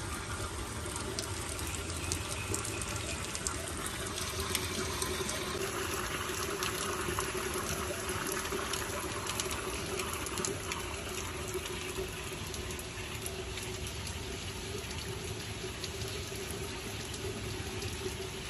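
Rain falling steadily on a wet street, paving and lawn: an even hiss dotted with the small splashes of single drops.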